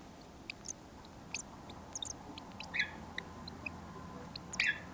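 Baby cockatiel chick making faint, short, high peeps and chirps, scattered irregularly, with a couple of brief buzzier calls near the middle and end.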